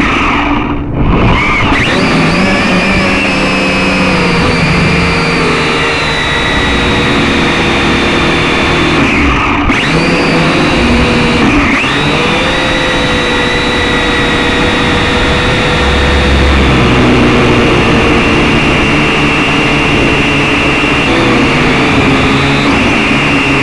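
Syma X5SC toy quadcopter's small electric motors whining, the pitch wavering up and down as the throttle shifts, over a low rumble of wind. The whine briefly drops out twice.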